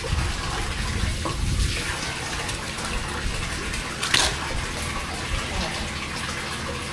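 Steady rushing of water, with a single sharp knock about four seconds in.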